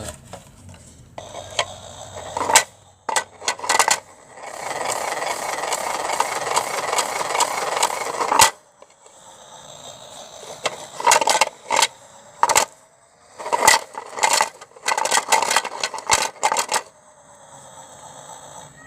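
Toy washing machine running with bricks inside: a few sharp clicks, then several seconds of dense rattling that cuts off suddenly, followed by bursts of clattering knocks as the bricks tumble against the plastic drum.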